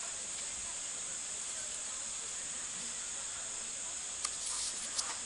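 A steady high-pitched hiss, with a few short clicks about four and five seconds in.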